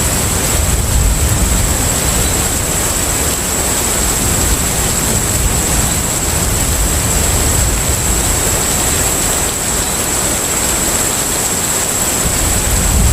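Steady ambience aboard a container ship at sea: a continuous low rumble of the ship's engines under an even wash of wind and sea, with a steady high-pitched tone over it.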